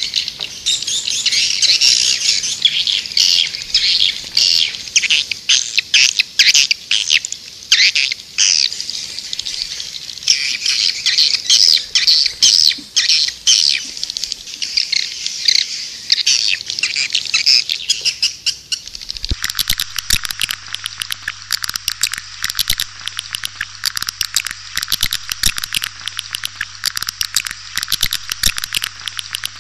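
Swiftlet-lure call recording: dense, high twittering chirps of edible-nest swiftlets. About two-thirds of the way through it cuts abruptly to a fast, even ticking chirr, like crickets, with a low hum under it.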